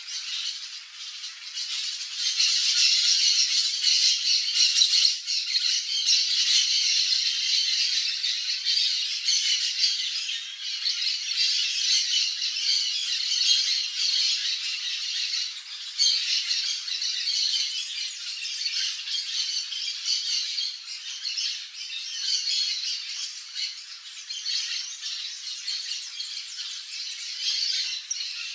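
Dense, continuous chatter of many birds calling at once, high-pitched with nothing low in it, loudest a few seconds in.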